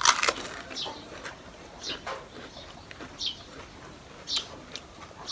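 Close-miked eating sounds: wet chewing and lip smacks, a short sharp one right at the start and then a few more at uneven intervals.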